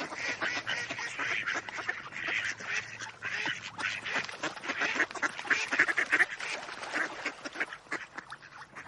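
Turkey pot call, a friction call played by drawing a striker across the calling surface, run in a rapid series of short yelping notes.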